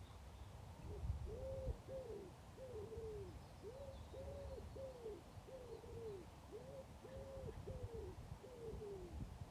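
A pigeon cooing: a repeated phrase of soft, low coos that starts about a second in and runs on in several phrases. A low rumble lies underneath, with faint small-bird chirps in the distance.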